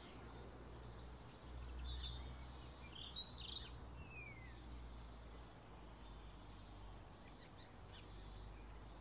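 Faint garden ambience: small birds chirping in quick repeated high calls, in two runs with a pause in the middle, over a steady low rumble.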